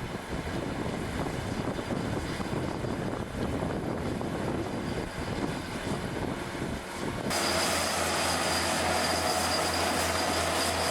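Bulldozer at work: engine running and tracks rumbling. About seven seconds in the sound cuts abruptly to a louder, steadier machine noise with a high whine.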